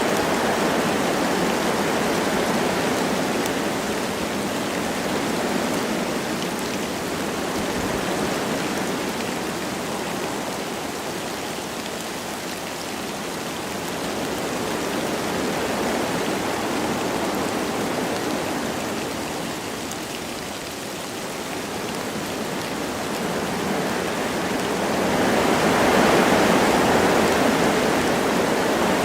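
Wind blowing through forest trees with light rain, a steady rushing that swells and eases in slow gusts, the strongest gust coming near the end.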